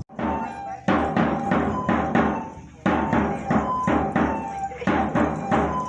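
Percussive music for a women's rain dance: an even beat of drum strikes, about three a second, with held tones above it.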